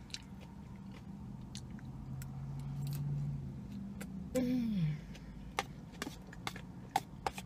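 Chewing with small scattered clicks of a fork against a plastic container, over a low steady hum that swells and then fades by about four seconds in. About four and a half seconds in comes a short, falling 'mmm' of enjoyment.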